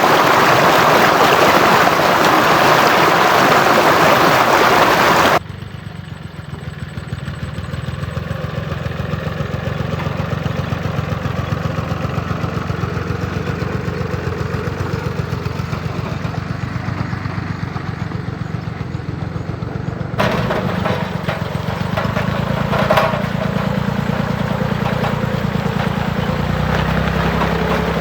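Rushing, spraying water noise for about five seconds, then it cuts off abruptly to a tractor engine running with a fast, even chugging that builds over the next couple of seconds. About two-thirds of the way through it cuts again to the engine running steadily at a lower, fuller pitch.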